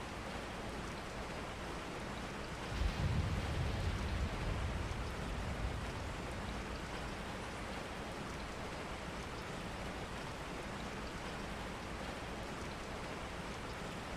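Steady rain. A low rumble swells about three seconds in and dies away over the next few seconds.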